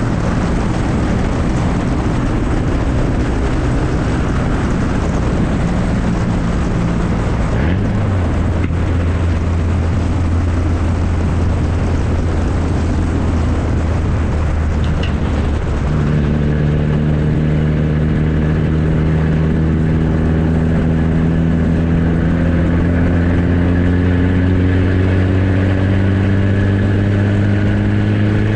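Straight-piped 1994 Ford Ranger's 2.3-litre four-cylinder running loud with no muffler. In the second half the exhaust note rises slowly and steadily as the engine gains revs.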